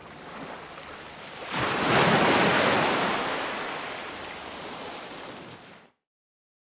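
An ocean wave breaks about a second and a half in, its surf washing and slowly fading. Near the end the sound cuts off to dead silence.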